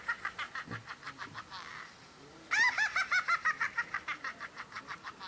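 A rapid run of short rising-and-falling chirps, about seven a second, fading away. A second loud run starts about two and a half seconds in and fades the same way.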